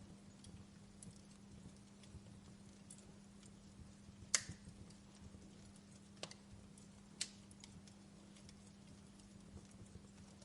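Wood fire crackling in a fireplace: sparse, irregular pops and snaps, the sharpest about four seconds in and two more around six and seven seconds, with fainter ticks between, over a steady low hum.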